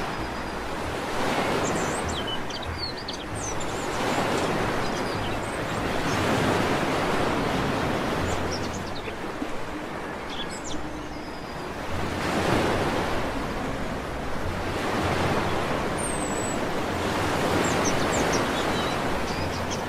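Sea waves breaking and washing up a beach in slow swells every few seconds, with small birds chirping briefly and high-pitched over the surf.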